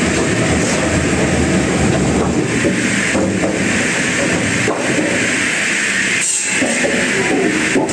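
Sawmill machinery running, a loud, steady mechanical rumble with continuous clattering that dips briefly about six seconds in.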